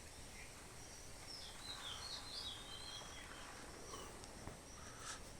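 Birds chirping and calling faintly in short, scattered phrases over steady outdoor background noise.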